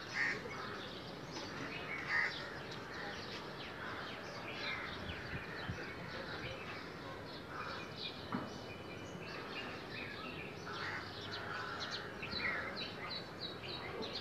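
Many birds chirping and calling over a steady outdoor background noise. Near the end, one bird repeats a short high note several times in quick succession.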